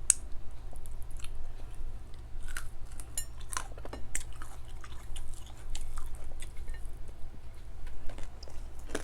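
A person chewing and smacking on a mouthful of fried dried milkfish and rice close to the microphone, with scattered short wet clicks and crunches, over a steady low hum.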